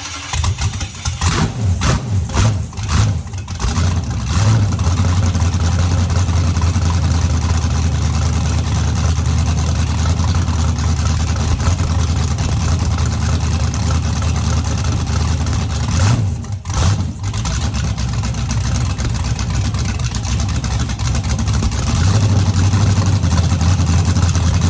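Rebuilt L33 LS V8 on an engine run stand, running just after start-up on open headers. It runs uneven and choppy for the first few seconds, then settles into steady loud running. It dips briefly about two-thirds of the way through and runs louder again near the end.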